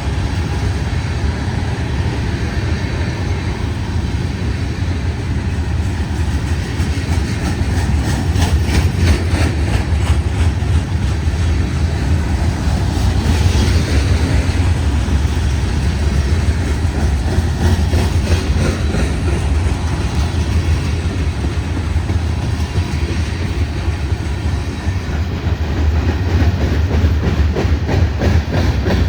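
Freight train passing close by: a steady heavy rumble of rolling cars, with rapid clicking of wheels over rail joints that is thickest about eight to twelve seconds in and again near the end.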